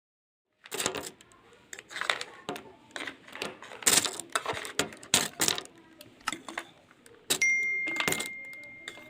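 A series of sharp clicks and clinks, then a bright ringing ding that starts about seven seconds in and holds for over a second and a half.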